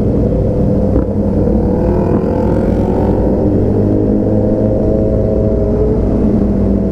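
Motorcycle engine running under way during a ride, a fairly steady engine note throughout.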